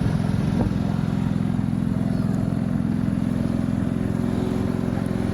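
Low-pitched engine or motor running steadily.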